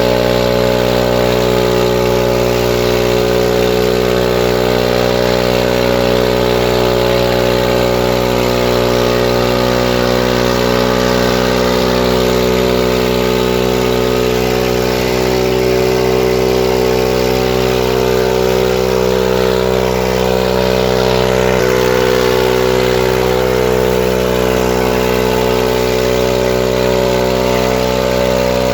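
Farmtrac 45 tractor's diesel engine running steadily at a constant speed, with no revving.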